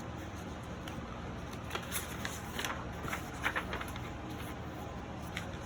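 Quiet steady room background with a few soft, short clicks and rustles scattered through the middle.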